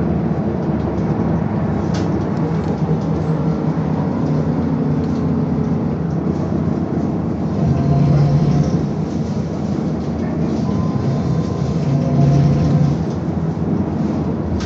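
Ride noise inside a BKM-221 trolleybus: a steady rumble of tyres and body, swelling louder twice, with one sharp click about two seconds in.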